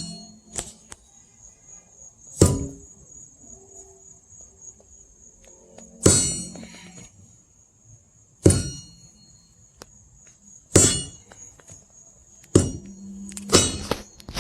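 Sledgehammer striking steel splitting wedges driven into a log, about seven ringing metallic clangs roughly every two seconds. The wedges are being driven to split a tough log that will not split easily.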